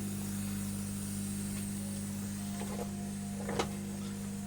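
Steady low electrical hum from workbench equipment, with one small click about three and a half seconds in.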